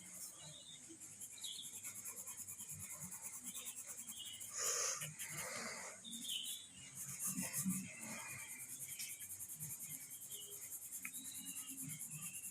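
Pencil scratching on paper in quick, even shading strokes, about four a second, with a couple of louder rustles partway through.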